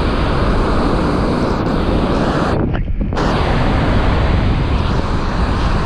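Strong wind buffeting the microphone over breaking surf, a loud, steady rushing with heavy low rumble that dips briefly about three seconds in.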